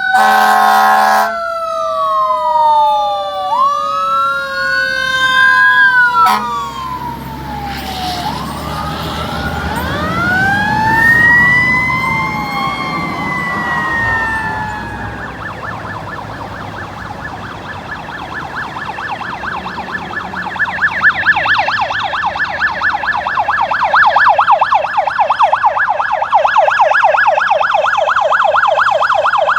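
Responding fire apparatus sirens: an air horn blast cuts off about a second in, then overlapping wailing sirens glide up and down while a heavy truck engine rumbles past. About halfway through, a siren switches to a fast yelp that runs on to the end.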